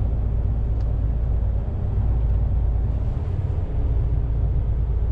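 Heavy truck driving: engine and road noise as a steady low rumble.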